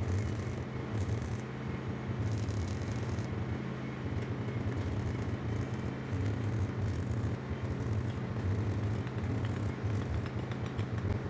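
Machinery running with a steady low hum, with intermittent scraping and rattling on top.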